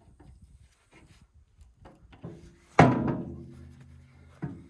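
A few light knocks, then a hard metal strike about three seconds in that rings on and fades over a second or so, and a lighter knock near the end: steel parts of a tractor loader being struck.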